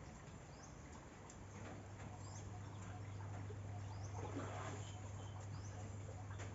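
Birds chirping, short high calls repeating about once a second, over a low steady hum that comes in about a second and a half in; a brief rustling swell near the middle.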